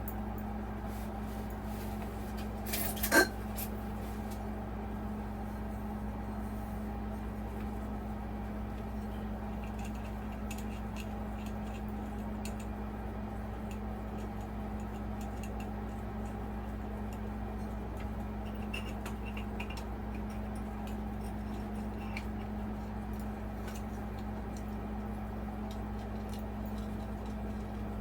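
Glass light shade being handled and screwed onto a ceiling fan's light kit: one sharp, ringing glass clink about three seconds in, then faint scattered clicks and scrapes, over a steady low hum.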